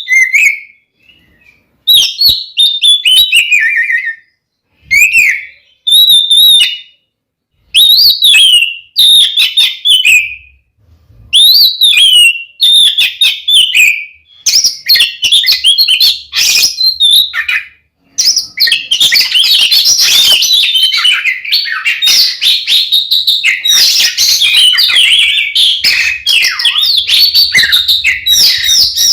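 Oriental magpie-robin (kacer) singing loud, varied whistled phrases separated by short pauses, turning into a continuous, rapid stream of song about two-thirds of the way through.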